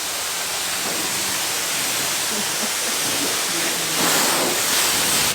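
High-pressure washer wand spraying water: a steady hiss that gets a little louder about four seconds in and cuts off abruptly at the end.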